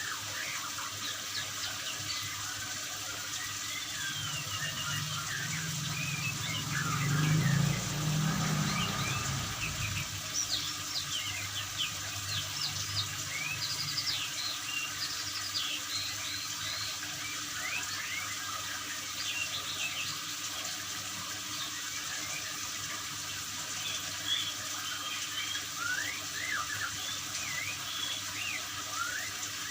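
Water running steadily, like a tap or spray, with many short bird chirps and whistles scattered through it. A low rumble swells briefly about a quarter of the way in.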